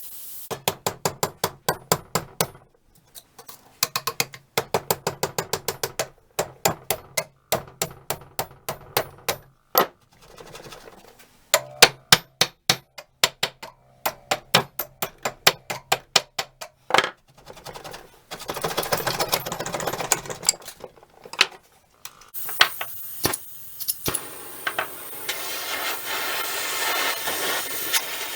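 Hand hammer striking metal in fast runs of sharp taps, several a second, with short pauses between runs. Past the middle the tapping gives way to a steady scraping, rubbing noise.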